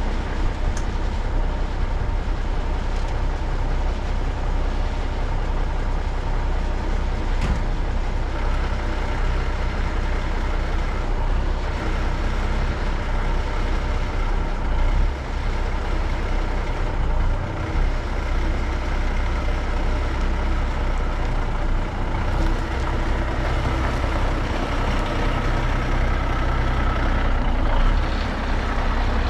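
Cummins diesel engine of an old Brockway truck running steadily and loudly, with a higher whine coming in partway through.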